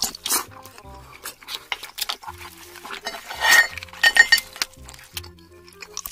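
Tableware clinking during close-miked eating, with a sharp ringing clink in the middle, over background music with a steady bass line.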